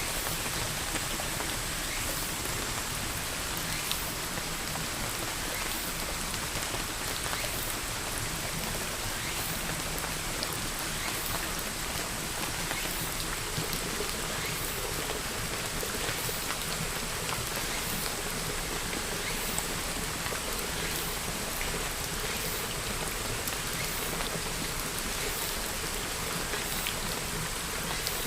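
Steady rain falling, with many individual drops landing as sharp little ticks over an even wash of rain noise.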